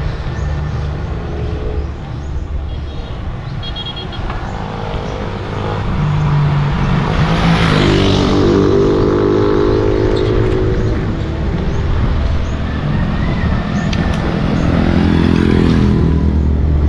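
Road traffic: a motor vehicle passes close about halfway through, its engine note falling as it goes by, and another vehicle comes up near the end, over a steady low rumble.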